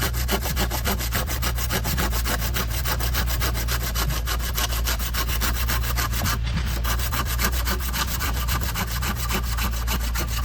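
A saw cutting through wood with a fast, even rasping rhythm, pausing briefly about six and a half seconds in before carrying on, over a steady low hum.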